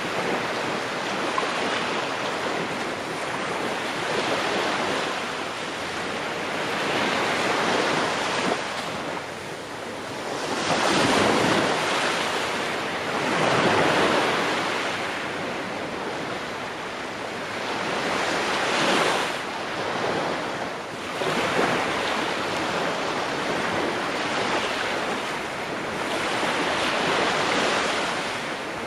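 Ocean waves breaking and washing on a shore, a steady rush that swells and ebbs every few seconds, with stronger surges about a third and half way through and again near the end.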